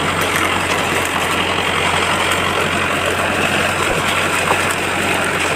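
A heavy diesel engine running steadily with a constant low hum.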